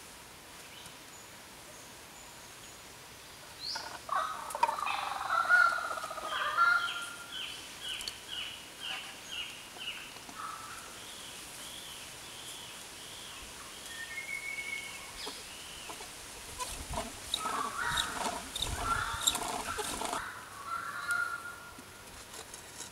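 Forest birds calling, with a run of repeated high notes at about two a second starting some four seconds in. Later, a cluster of knocks and scrapes as clay furnace pieces are handled and set down on dirt, with more bird calls among them.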